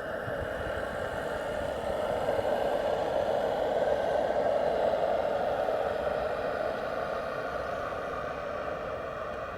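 Model steam boat's Saito T2-DR steam engine running steadily under way, a continuous mechanical hiss and whirr that grows louder for the first few seconds, then eases off a little.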